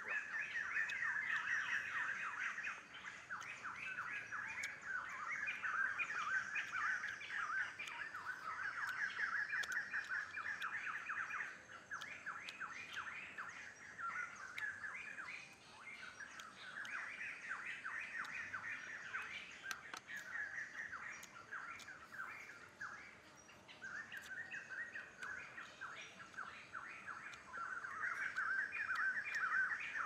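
Birds chirping in rapid trills, in runs of a few seconds with short pauses between.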